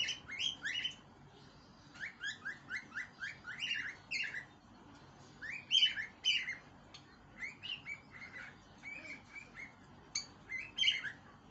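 Small pet parrot chirping and singing in runs of short, bright, rapid chirps, with brief pauses between the runs.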